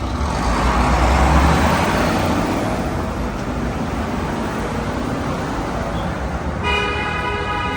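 City street traffic: a passing vehicle makes a rush that swells and fades over the first two or three seconds. Near the end, a vehicle horn starts a long, steady blast.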